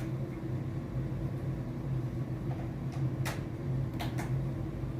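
Three sharp clicks over a steady low hum, from plugging in and switching on a repaired LED TV.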